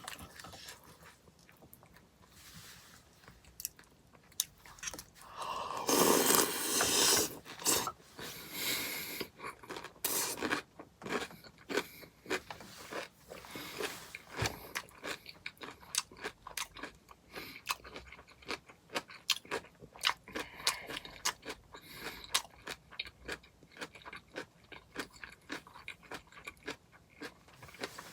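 Close-up chewing and crunching of granola in hot cereal soup, with many quick crunches and a louder noisy stretch about six seconds in.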